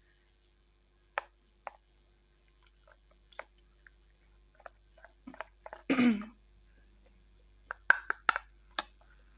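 Slate pencils being bitten and chewed: a series of sharp, separate crunchy snaps, with a quick cluster of louder ones near the end. About six seconds in there is one louder, short throaty sound that drops in pitch.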